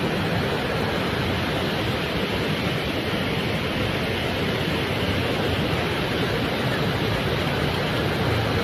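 Steady rush of falling water from a large waterfall, an even unbroken roar that holds at one level throughout.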